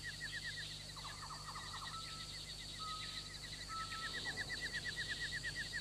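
Small birds chirping: one repeats a quick high chirp several times a second throughout, while others add short whistled notes now and then. A low steady hum runs underneath.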